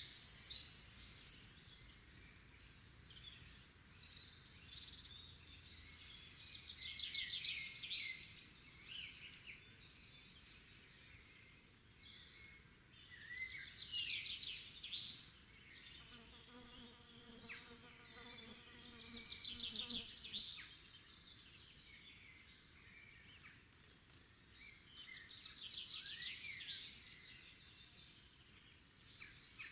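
A songbird repeating a high, trilling song phrase about every six seconds over a faint outdoor background. An insect buzzes past for a few seconds around the middle.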